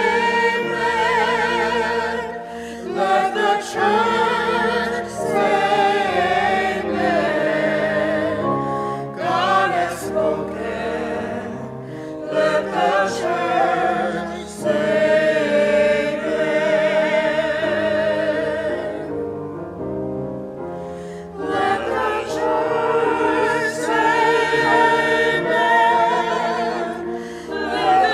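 Church choir singing a closing sung response, many voices with vibrato over sustained accompaniment, with a brief softer passage about two-thirds of the way through.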